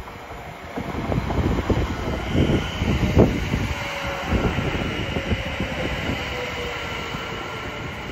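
Class 730 Aventra electric multiple unit running along the platform, slowing, its wheels knocking over the rail joints, loudest about three seconds in. A steady high whine and a fainter lower tone that drifts slightly down run under the knocking.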